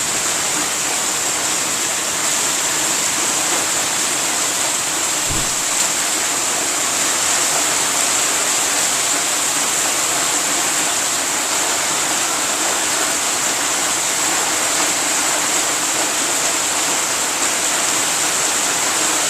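Heavy rain pouring down steadily in the wake of a hailstorm, an even hiss of falling water.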